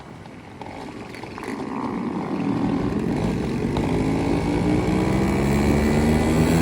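Motorcycle engine getting louder from about two seconds in, its pitch rising steadily as it accelerates.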